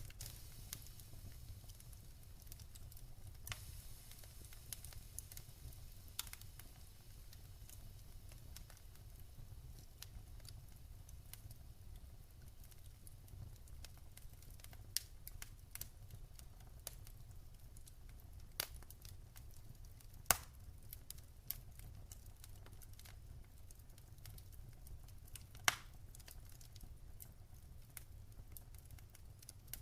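Wood fire crackling in a fireplace: irregular sharp pops, a dozen or so, scattered over a faint steady low rumble, with the loudest pop about two-thirds of the way through.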